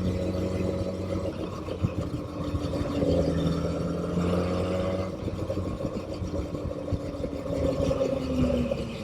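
Motorcycle engine running while riding. Its note holds steady, climbs, drops about five seconds in, then climbs again and drops near the end, following the throttle.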